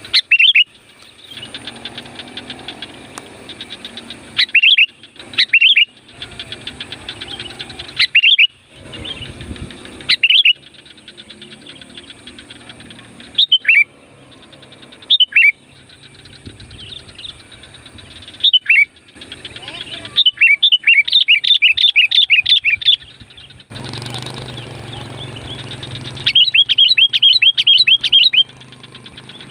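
Sooty-headed bulbul (kutilang) calling loudly: short, sharp, falling notes every second or two, then in the second half two quick runs of repeated notes a couple of seconds long each, over a steady low background hum.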